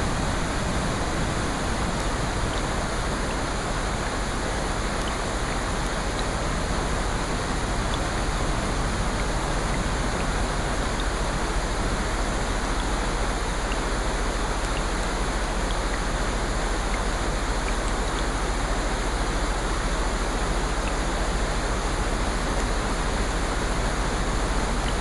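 Steady, even rushing of water from a rain-and-ocean sleep-sound track, with faint scattered ticks over it.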